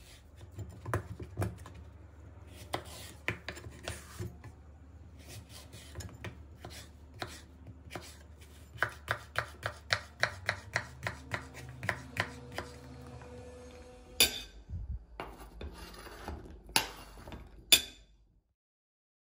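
Knife chopping vegetables on a cutting board: scattered cuts and scraping, then a run of quick, even strokes in the middle, and a few sharper knocks near the end before the sound cuts off about eighteen seconds in. A low steady hum runs underneath.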